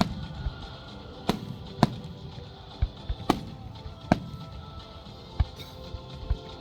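Fireworks bursting: about ten sharp reports in irregular succession, some crisp cracks and some deeper thumps, each with a short echoing tail. Music plays underneath.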